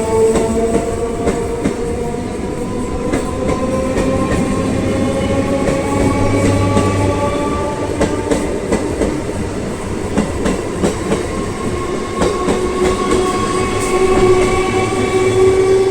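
Naihati–Sealdah electric local train pulling away: a motor whine that rises slowly in pitch, with wheels clicking over the rail joints.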